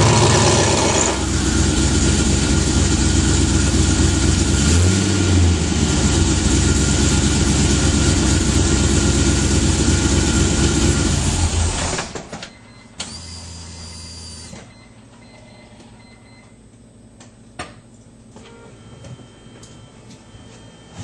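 LS1 V8 in a Mazda RX-7 FD running through an open-able exhaust cutout, with a brief rise in revs about five seconds in, then shut off about twelve seconds in. Afterwards a short steady whir and a few faint clicks.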